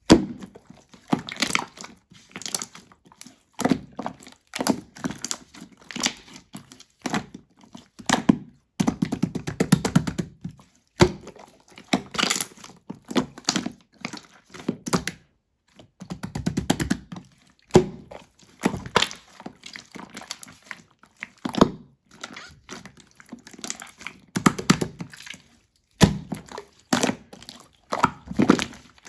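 Slime being pressed and squished by hand, making irregular clusters of sticky clicks, pops and crackles with short pauses between handfuls.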